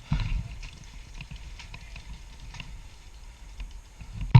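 Rumble of a player moving with a body-worn camera, with wind and handling noise and a few faint scattered clicks of airsoft fire. A single sharp, loud knock comes near the end.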